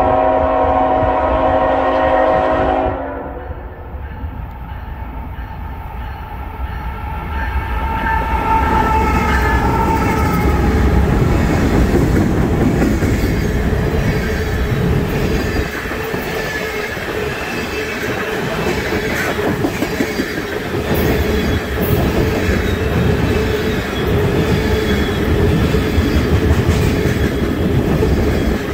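A freight locomotive horn sounds one chord of several notes for about three seconds as the train approaches. Then a long train of tank cars passes close by, with a steady rumble and the clatter of wheels over the rails.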